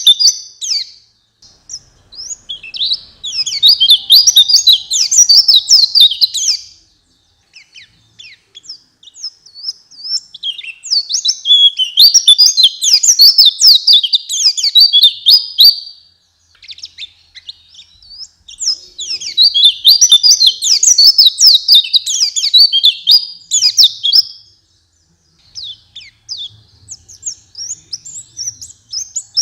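White-eye (pleci) singing: long runs of rapid, high-pitched twittering song, each several seconds long, with short pauses between them.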